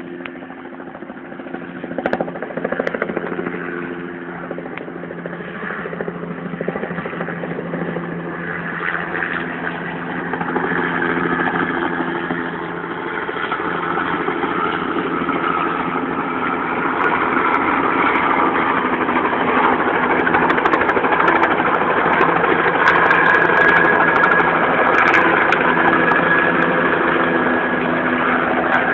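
Helicopter engine running steadily and growing louder, with a steady high whine coming in during the second half.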